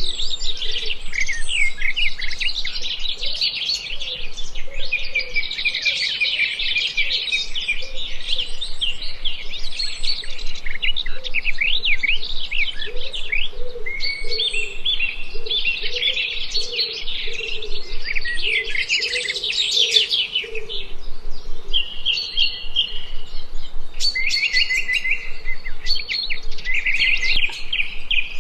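Several forest songbirds singing at once, a dense chorus of overlapping high chirps and trills. A softer, lower call runs underneath and fades out about two-thirds of the way through.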